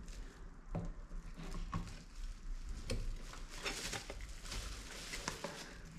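Scattered small clicks and taps of window-regulator parts being handled and fitted by hand, with a quicker run of them about halfway through.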